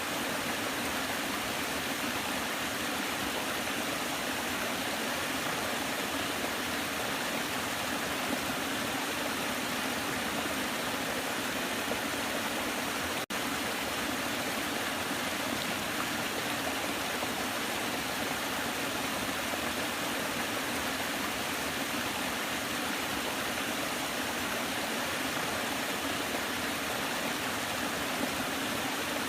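Waterfall rushing steadily, an even hiss of falling water, with a split-second dropout near the middle.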